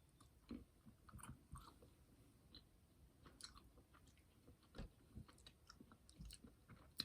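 Faint chewing of a jelly bean candy: scattered soft, sticky mouth clicks and smacks.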